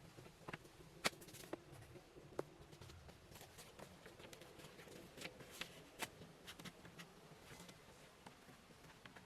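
Faint, irregular clicks and taps, about a dozen, scattered over a quiet background, the sharpest about a second in.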